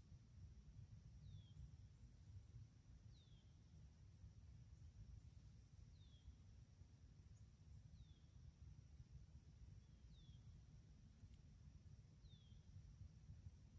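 Faint evening field ambience. A bird repeats a short downward-slurred call about every two seconds over the steady, high, pulsing trill of crickets.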